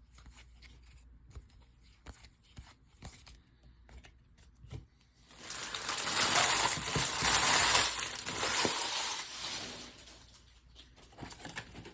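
Faint clicks of cards being handled, then, about five seconds in, the wrapper of a baseball-card pack is torn open and crinkled for several seconds.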